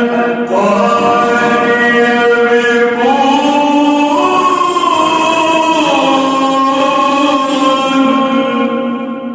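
Man's voice in melodic mujawwad Quran recitation, drawing out one long ornamented phrase. The pitch steps up about three seconds in, comes back down around six seconds, and the voice fades out near the end.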